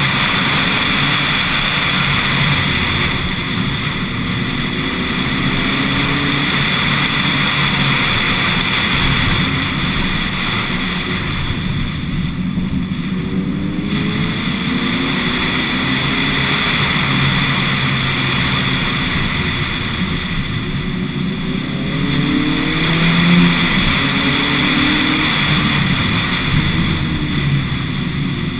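Lotus Elise S1 111S's four-cylinder engine driving hard up a winding mountain road. The revs climb and fall, easing off twice for bends, about halfway through and again a little later. Steady wind and road rush over the outside-mounted camera runs underneath.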